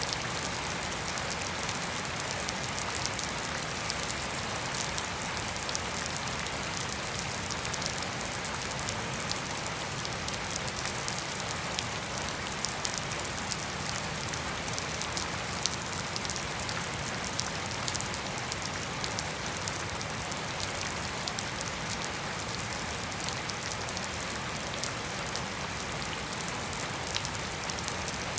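Steady rain falling on a lawn and a puddled paved path, an even hiss dotted with many separate drop ticks, with no thunder.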